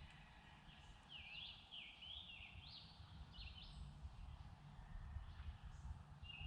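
A songbird singing a quick run of short slurred whistled notes for about three seconds, then falling quiet, over a faint low background rumble.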